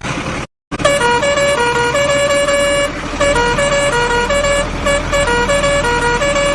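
A simple electronic tune of short beeping notes that jump between a few pitches, over a steady low hum. It starts after a brief dropout about a second in.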